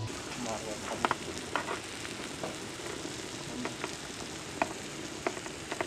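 Prawns and paneer sizzling on a hot electric Korean BBQ grill plate, with scattered light clicks and pops.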